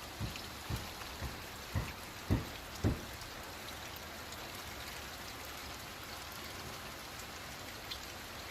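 Steady hiss of rain, with a run of six low thuds about two a second in the first three seconds, then only the rain.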